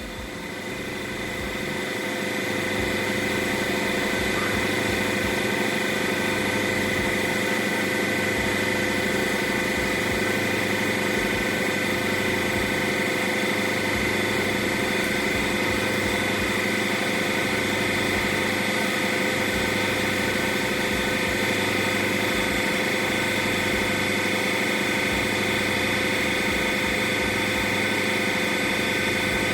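A machine running with a steady drone and a high whine over a hiss; it builds up over the first couple of seconds, then holds level.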